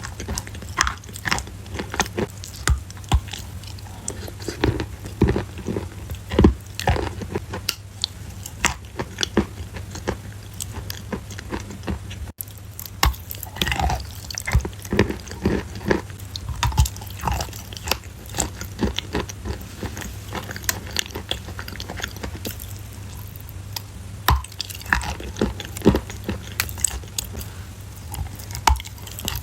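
Close-up crunching of crunchy food being bitten and chewed, with many irregular sharp crackles over a steady low hum. The sound breaks off for an instant partway through, where two clips are joined.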